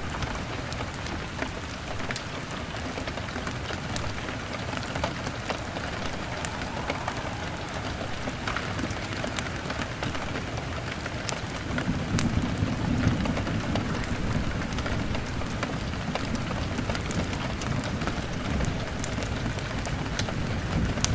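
Steady rain on a window, with sharp little crackles and ticks scattered throughout from a crackling fire and raindrops. About halfway through, a low rumble of thunder comes in and keeps rolling.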